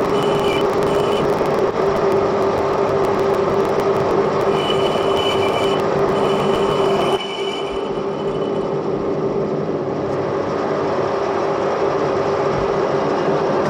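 Edgwick lathe running, with a steady whine and cutting noise; a high-pitched squeal comes and goes during the cut. About seven seconds in the sound drops and the whine fades, and the lathe keeps running more quietly.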